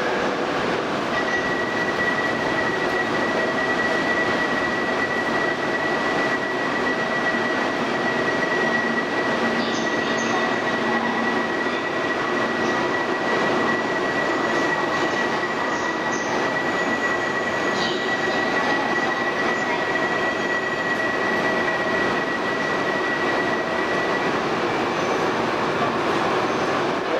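Shinkansen train running with a steady rush of noise, and a thin high whine held through most of it that stops near the end.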